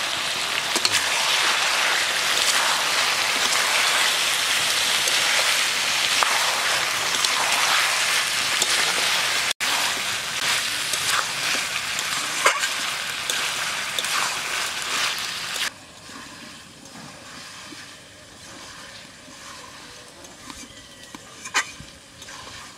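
Mutton and onions frying hard in mustard oil in a metal wok, a loud steady sizzle as ginger and garlic pastes go in. About two-thirds of the way through the sizzle gives way to a much quieter background with a few sharp scrapes of a spatula against the pan near the end.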